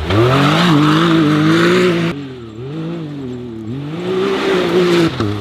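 Off-road vehicle engine revving up and down as it is driven hard, its pitch rising and falling several times, with abrupt changes in the sound about two seconds in and again near the end.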